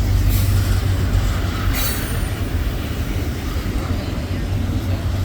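Intermodal freight train rolling past on the rails with a steady low rumble, and a brief high-pitched wheel screech about two seconds in.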